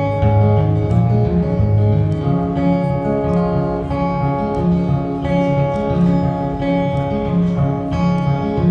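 Guitar music: acoustic guitar strumming chords over low, sustained bass notes, the chords changing every second or so.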